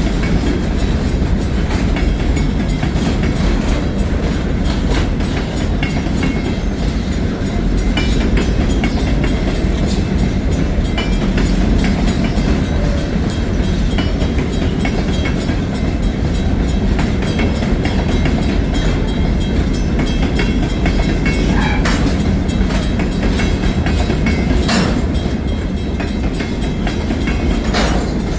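Freight train cars rolling past close by: a steady, heavy rumble with the clickety-clack of wheels over rail joints and a few sharper knocks.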